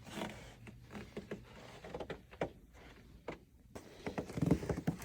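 Snow shovel scraping and scooping light, fluffy snow in short, irregular strokes, with a louder rustle near the end.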